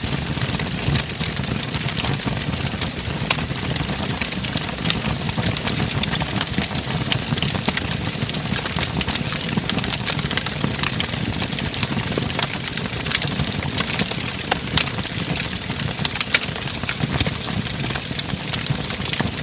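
Wood fire crackling: frequent sharp pops and snaps over a steady low rumble of burning.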